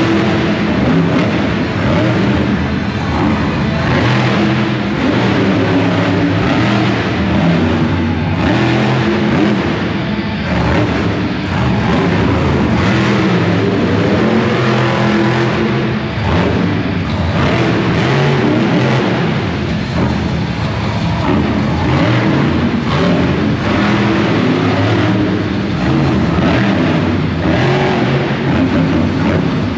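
Monster truck engines running and revving loudly, with music mixed in.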